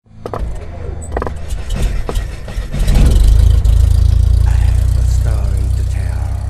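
A deep rumble that swells about three seconds in and slowly fades, with several sharp clicks in the first two seconds.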